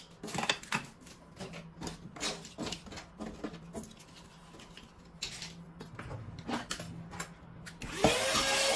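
Rustling and clattering of food packets and containers being handled and moved about in a kitchen drawer, with irregular light knocks and clicks. Near the end a steady tone with a constant hiss starts and stays on.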